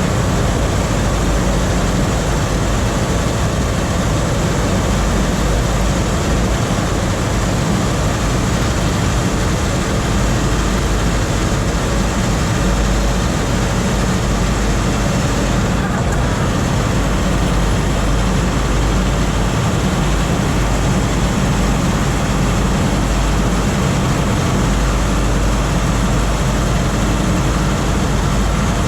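Scania R520's 16-litre V8 diesel engine running steadily, a constant unbroken rumble from the heavy truck.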